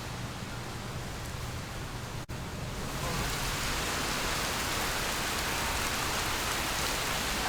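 Steady rushing noise of falling water. A brief dropout comes about two seconds in, after which the rush is louder and brighter.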